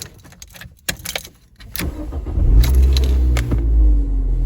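Keys jangling and a few clicks, then about two seconds in a Dacia Duster's engine comes in with a loud, steady low rumble that holds to the end.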